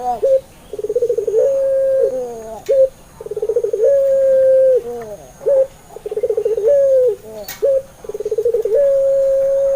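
Puter pelung, a Barbary dove bred for its long coo, cooing about four times. Each call opens with a fast rolling trill and goes into a long held note that drops at the end. A couple of sharp clicks fall between calls.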